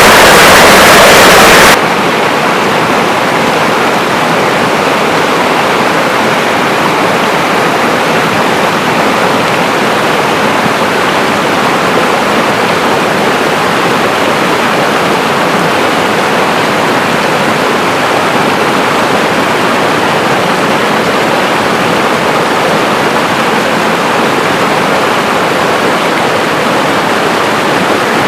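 River water rushing steadily. Less than two seconds in, a louder, harsher rushing noise cuts off suddenly, giving way to the steady flow.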